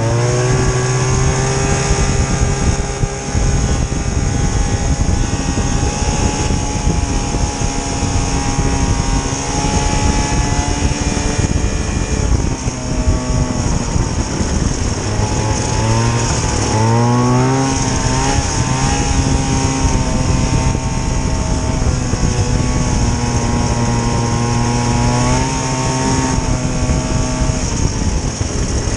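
Vintage snowmobile's small two-stroke engine running steadily, its pitch rising and falling briefly with the throttle about two-thirds of the way through.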